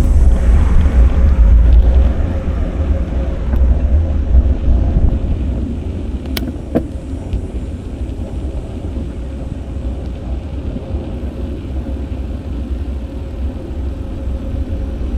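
Wind rumbling on an action camera's microphone while riding a bicycle, with road traffic; the rumble is loudest in the first two seconds and eases after. A single sharp click about six and a half seconds in.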